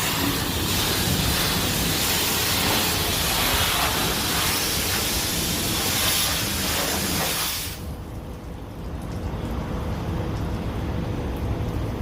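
Loud, hissing water spray, as from a car-wash spray gun hitting a car, cuts off suddenly about eight seconds in. A low rumble carries on after it.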